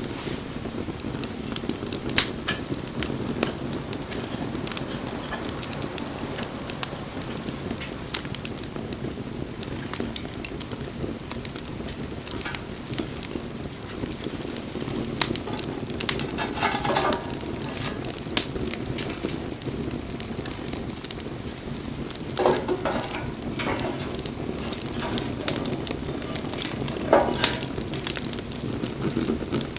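Wood bonfire burning with a steady rush and frequent sharp crackles and pops, with a few brief sizzling hisses from the burning wood.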